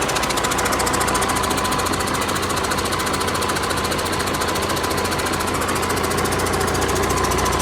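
Detroit Diesel DD13 12.8-litre inline-six diesel engine running steadily at an even speed, with a rapid, regular diesel knock and a thin steady whine over it.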